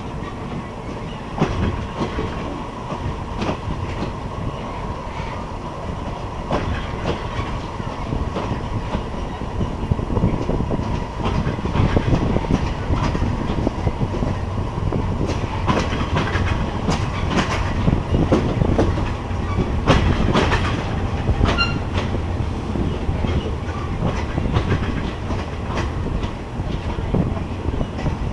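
Passenger train running on the rails: a steady low rumble with repeated clicks of the wheels over the rail joints, getting louder about ten seconds in.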